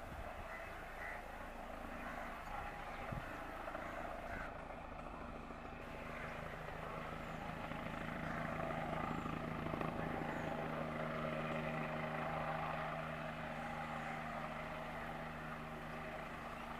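Bell 429 helicopter running at a distance: a steady, fairly faint hum that grows a little louder midway and eases slightly toward the end.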